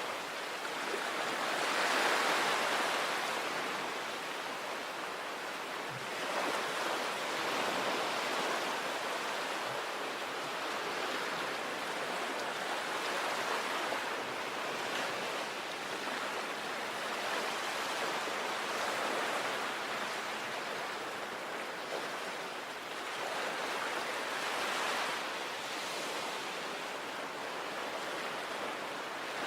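Sea waves breaking and washing on the shore, a steady surf noise that swells and eases every few seconds.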